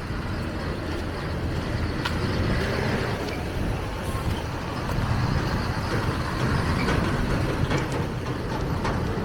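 Motor vehicle engine running nearby, a steady low rumble with a few faint clicks over it.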